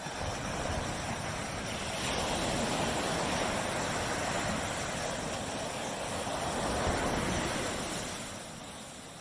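Tropical surf washing up on a beach: a wave's rush builds over the first couple of seconds, holds, and falls away near the end.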